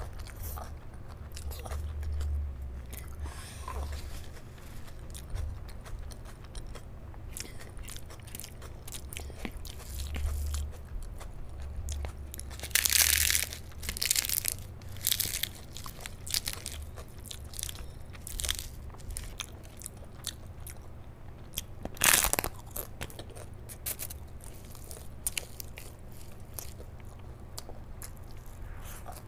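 Close-miked chewing of a mouthful of rice and curry eaten by hand, with wet mouth clicks throughout. A few louder, sharper bursts come around the middle and again about three-quarters through.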